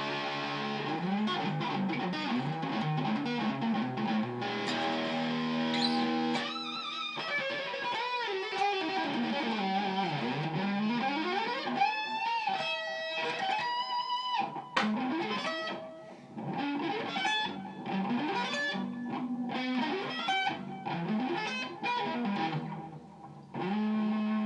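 Overdriven electric guitar played through a Madbean Laserwolf DIY pedal, which combines phaser, delay and overdrive. Held chords first, then a pitch that slides down and back up around ten seconds in, then short, choppy lead notes.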